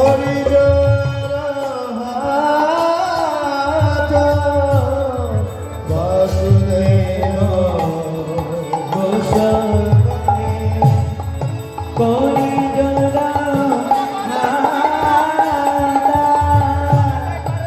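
Devotional singing with hand-drum accompaniment: a melody sung in long phrases of about six seconds, each starting afresh near 6 and 12 seconds in, over a steady drum rhythm.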